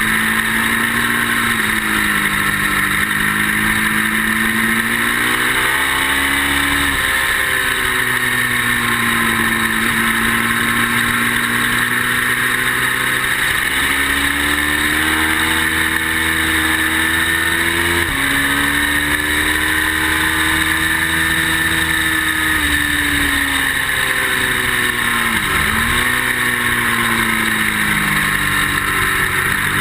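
Ducati motorcycle engine running hard on track, its pitch rising and falling several times through acceleration, gear changes and slowing for corners, with a sharp drop and recovery about 25 seconds in. The rider says the Ducati was not running great that day.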